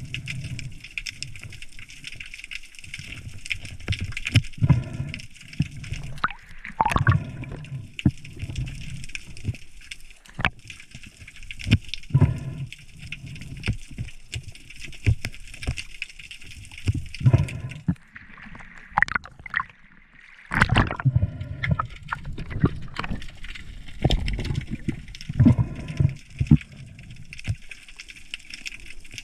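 Water sloshing and gurgling around a spearfisher's camera in the sea, with irregular low thuds every second or two over a steady hiss.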